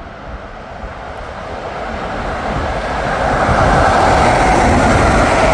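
Electric train passing through the station at speed. Its rushing noise grows steadily louder over the first few seconds, then holds loud.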